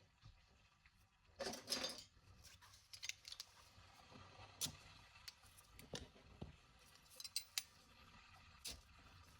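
Scattered light clicks and clinks of small hard objects being handled, with a short rustling scrape about one and a half seconds in.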